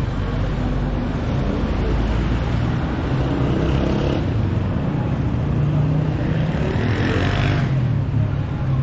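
Steady street traffic noise: a continuous rumble of vehicles, with no single event standing out.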